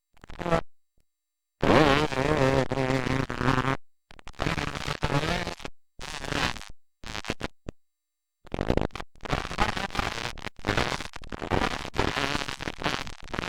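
Dirt bike engines revving and running, one rising in pitch about two seconds in and then holding steady. The sound is broken by several abrupt gaps of dead silence where the recording cuts between short clips.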